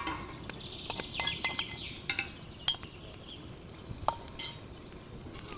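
Kitchen utensils and dishes clinking and knocking: a string of sharp clinks, a few of them ringing briefly.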